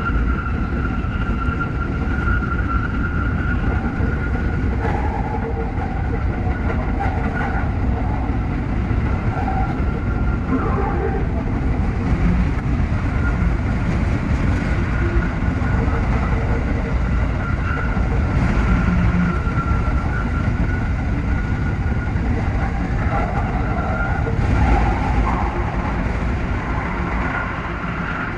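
Tsukuba Express TX-3000 series electric train running at speed: a steady low rumble of running noise with a thin, steady high tone running through most of it.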